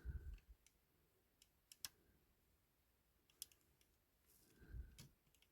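Faint, scattered clicks and taps of a small screwdriver prising at the plastic door card of a 1/18 scale diecast model car, with a couple of soft knocks.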